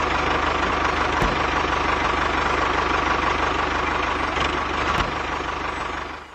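A small motor running steadily with a fast, even pulse, easing off slightly near the end.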